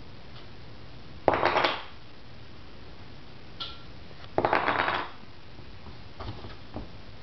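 Hard toy trucks clattering and rattling as a child handles them: two short bursts of rattling about three seconds apart, then a few lighter knocks near the end.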